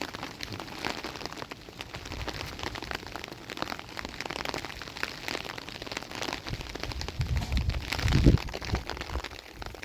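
Rain pattering steadily on a surface, a dense patter of small drops. A louder low rumble swells about seven seconds in and fades about a second and a half later.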